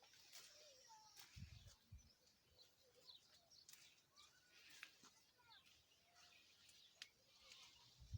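Faint birdsong: small birds chirping and twittering in short scattered calls, with a brief low rumble about a second and a half in.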